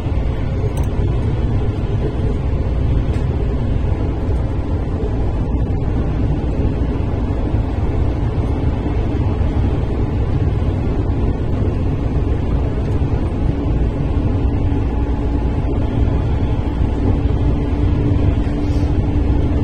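Running noise of a JR Central 313 series electric train descending a grade: a steady low rumble of wheels on rail. A faint steady hum comes up more strongly about two-thirds of the way through.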